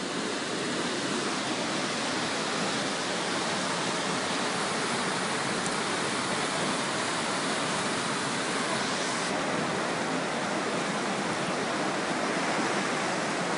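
Flash-flood water rushing past in a steady torrent.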